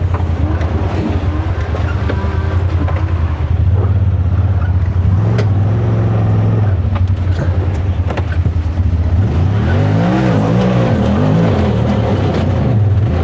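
Side-by-side UTV engine running at low revs, its pitch rising and falling as it is revved in the last few seconds, with a few sharp knocks in between.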